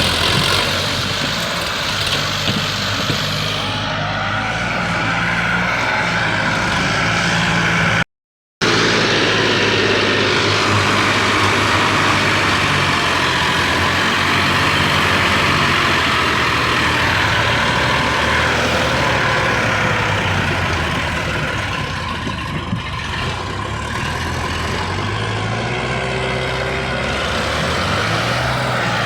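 Sonalika diesel tractor engines running hard under heavy load as they pull against each other, the sound cutting out completely for about half a second around eight seconds in.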